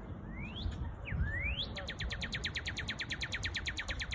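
Northern cardinal singing: two or three rising whistled slurs, then a fast trill of down-slurred notes, about ten a second, lasting over two seconds. A steady low rumble runs underneath.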